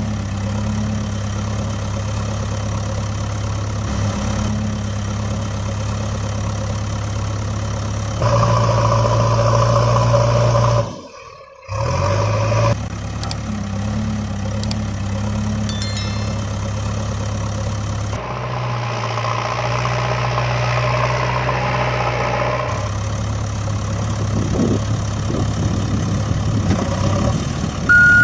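Steady engine idling sound with a low hum. It switches abruptly louder at about 8 s and again at 18 s, and cuts out for about a second around 11 s.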